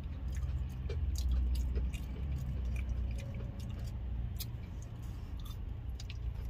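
A person chewing soft fried chicken thigh bites at close range, with scattered wet mouth clicks and smacks, over a steady low rumble.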